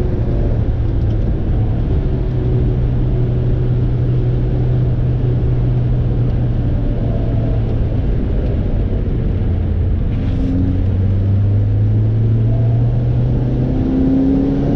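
Sports car engine running hard on track, its note steady, then dropping in pitch about eight seconds in and climbing again near the end.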